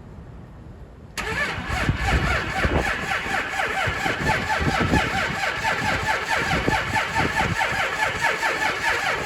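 Engine cold start: about a second in, the engine turns over abruptly and runs with a rapid, even pulse.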